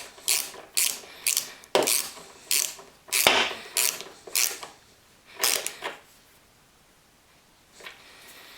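Ratchet wrench clicking in repeated strokes, about two a second, tightening a loose nut on a car's windshield wiper linkage; the strokes stop about six seconds in.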